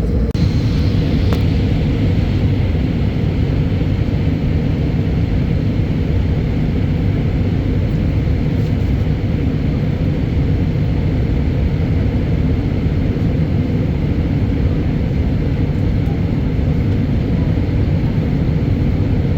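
Steady, loud, low rumble of an airliner's engines and airflow, with no breaks or changes.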